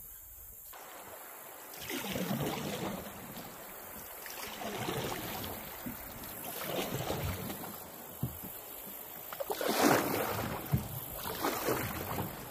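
Canoe paddles pulling through river water, a swishing splash every two to three seconds, with a few sharp knocks near the end.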